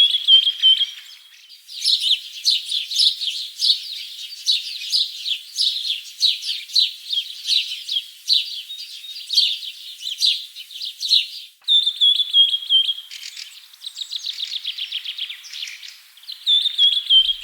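Small songbird chirping in quick high notes, with a short falling trill three times.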